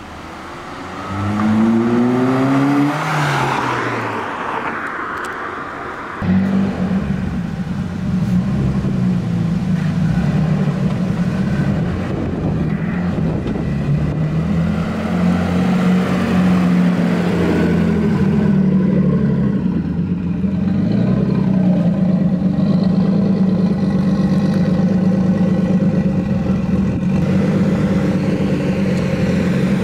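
A car engine accelerating, its pitch rising and then falling away. About six seconds in, a loud engine comes in suddenly close by and keeps running with a steady low drone, its pitch wavering slightly.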